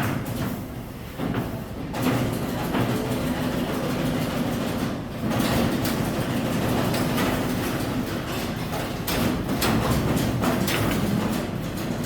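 A machine running with a steady low hum and an irregular rattling clatter.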